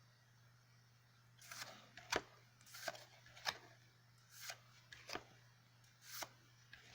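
Yu-Gi-Oh! trading cards being flipped through one by one as a booster pack is looked over: a faint series of short, sharp card snaps, irregularly spaced, starting about a second and a half in.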